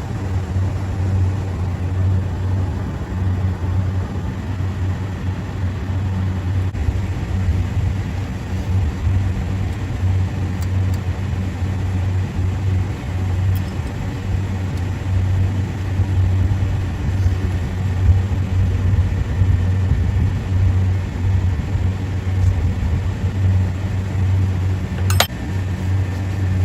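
Running machinery with a steady low hum, with one sharp click about 25 seconds in.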